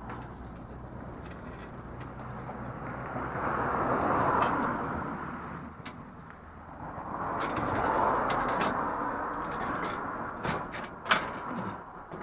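Two vehicles passing one after the other, each rising and fading over a few seconds, then a few sharp knocks near the end.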